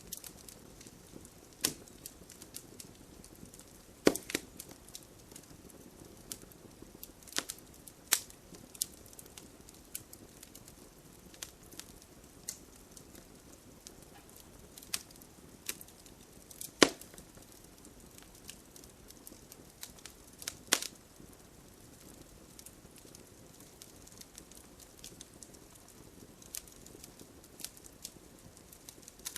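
Wood campfire crackling: irregular sharp pops and snaps over a soft steady hiss, with a few louder pops, the loudest about 17 seconds in.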